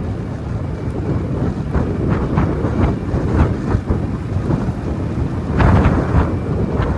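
Motorbike on the move: wind rushing over the microphone along with the engine's low running, with short sharp knocks over it and a louder stretch a little before the end.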